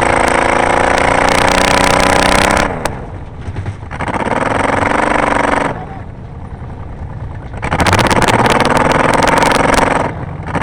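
Car engine at racing speed, held at high revs, easing off about three seconds in and again near six seconds, then back to full throttle about eight seconds in.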